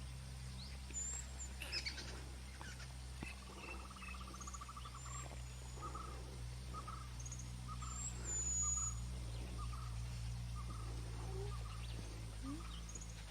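Forest birds calling: high thin whistles and chirps, a fast trill about three seconds in, then a run of short repeated notes about two a second. A steady low hum runs underneath.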